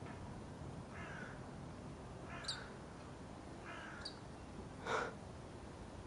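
Harsh, crow-like corvid calls from a bird in the tree: four short rasping calls about a second or so apart, the last and loudest about five seconds in. Two brief high-pitched chirps come between them.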